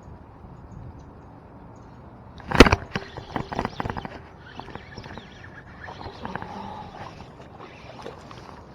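A steady low hiss, then a sharp loud knock about two and a half seconds in, followed by a few seconds of quick clicks and rattles.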